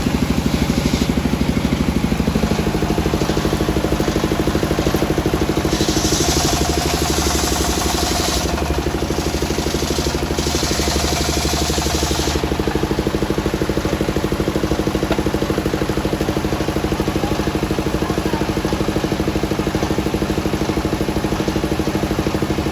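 Engine of a circular sawmill running steadily, its pitch shifting slightly a couple of times. Two stretches of hiss, each about two seconds long, come about six and ten seconds in.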